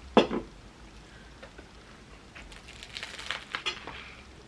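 A sharp crunchy bite into a toasted sandwich just after the start, then close-up chewing with a run of crisp crunches about two to four seconds in.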